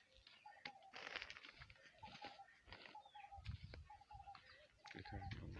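Faint bird calls, short notes repeated every second or so, with a few scattered soft clicks.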